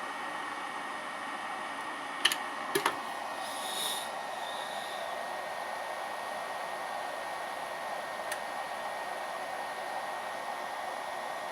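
400 Hz, 24000 rpm electric spindle running steadily under a frequency inverter: a steady whir with a thin high tone. A few sharp clicks come about two seconds in and one more near eight seconds.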